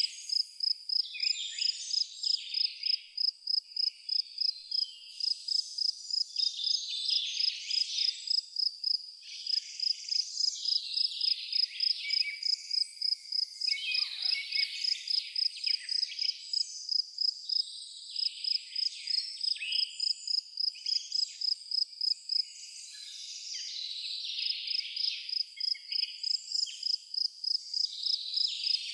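A cricket chirping steadily, about three chirps a second, with birds singing and calling over it. The chirping pauses briefly about three-quarters of the way through.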